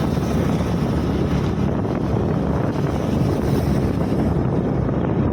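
Steady wind rush on the microphone of a moving scooter, with the scooter's engine and road noise running underneath.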